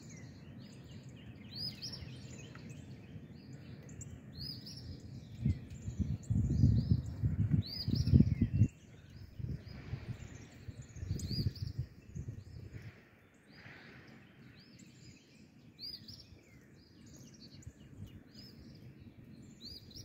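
Small birds chirping over and over in short rising chirps. A loud low rumble swells in about five to nine seconds in, and again briefly around eleven seconds.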